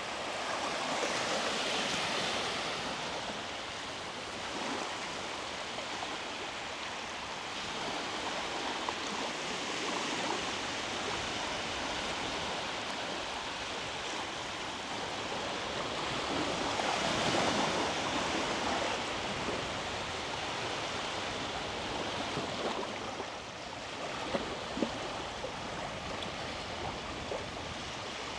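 Small sea waves breaking and washing up the beach in a steady hiss, swelling louder twice, about two seconds in and again about seventeen seconds in.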